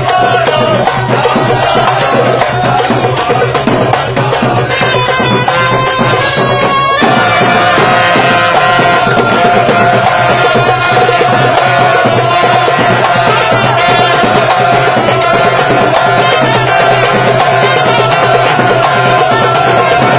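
Karkabou music: a fast, dense rhythm of karkabou (iron castanets) and drum under a sustained melodic line, with a change in the texture about seven seconds in.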